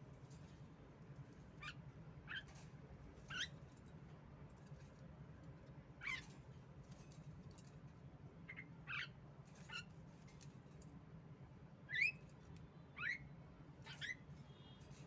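Female Javan myna (jalak kebo) giving short, sharp calls, each a quick sweep in pitch, about ten of them at irregular intervals, over a steady low hum.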